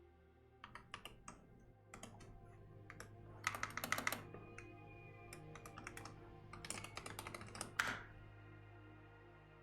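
Typing on a computer keyboard: scattered keystrokes, then two quick runs of rapid keypresses near the middle and toward the end, stopping about eight seconds in. Soft ambient music with steady held tones plays underneath.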